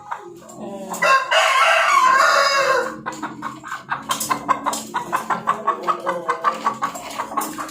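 A rooster crows once, a call of about two seconds starting about a second in, followed by rapid repeated clucking.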